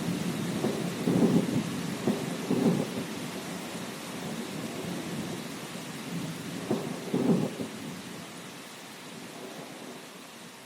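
Thunderstorm: steady rain hiss with rumbles of thunder, one starting about a second in and rolling on for a couple of seconds, another shorter one about two-thirds of the way through. The storm sound dies down toward the end.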